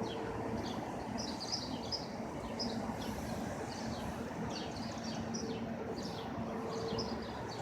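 Small birds chirping in quick, short, high notes, over and over, against steady street noise with a low hum.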